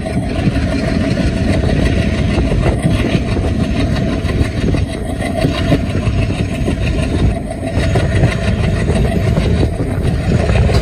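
Steady rumble of a moving passenger train heard from outside the coach, with wheels running on the track and rushing wind on the microphone.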